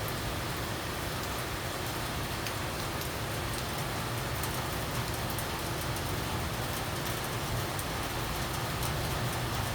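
Steady rain falling, an even hiss with many small drop ticks, over a constant low hum.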